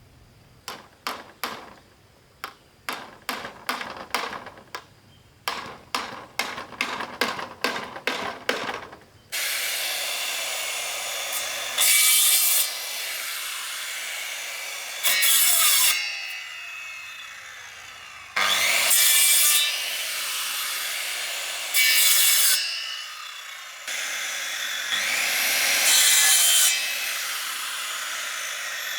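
Tool work on wood: a run of short rasping strokes, about two or three a second, then, about nine seconds in, a steady high rasping noise with several louder surges, like a power tool cutting or sanding.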